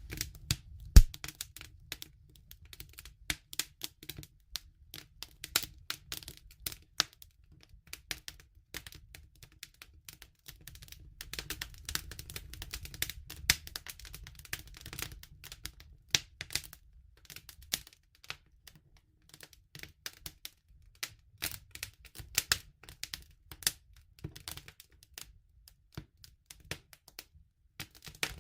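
Wood fire crackling, with irregular sharp snaps and pops over a low steady rumble of flames; one loud pop comes about a second in.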